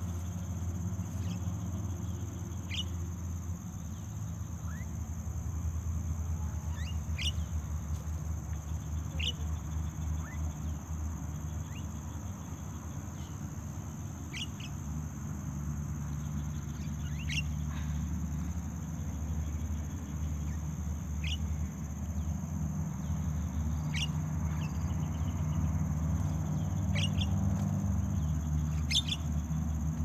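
Short, sharp downward-sliding bird calls repeating every second or two over a steady high insect drone and a low hum.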